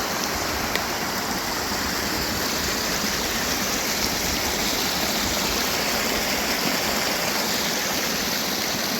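Rain-fed creek water rushing and splashing in a steady flow, the sound of a usually dry creek bed running strongly after rain.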